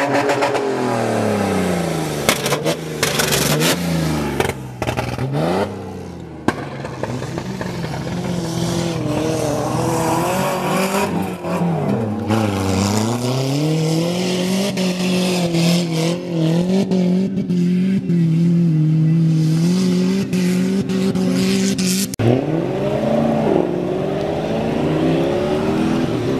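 Off-road vehicle's engine revving hard on sand dunes, its pitch climbing and falling again and again, held high for several seconds before dropping and revving again.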